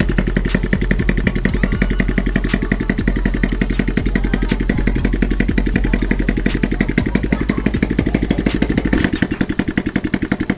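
Motorcycle engine running with no exhaust pipe or muffler fitted, its firing a loud, rapid, even popping straight from the exhaust port as it warms up. About nine seconds in it drops back and the pulses grow softer and more spaced out.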